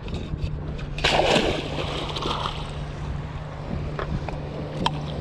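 A baited stone crab trap splashing into the water about a second in, the rush fading over a second or so, over the steady hum of the boat's idling outboard motor.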